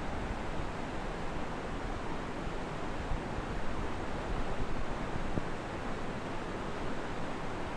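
Steady rushing noise of floodwater, with an uneven low rumble underneath.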